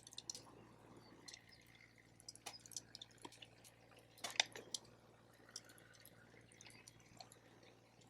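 Wood campfire crackling: scattered, irregular pops and snaps, the sharpest a little over four seconds in.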